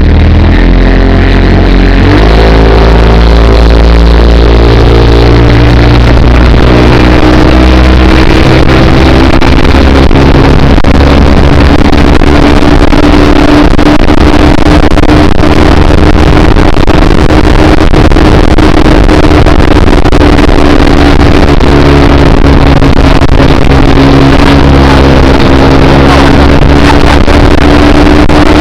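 Speedboat engine revving up about two seconds in, then running steadily at speed under a loud rush of noise.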